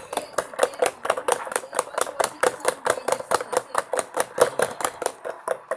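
LG Mini Turbo Drum washing machine running, with a rapid, even clicking or rattling at about six to seven knocks a second.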